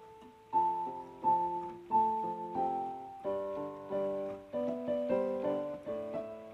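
Background piano music: a slow melody over sustained chords, with a new note or chord struck roughly every two-thirds of a second.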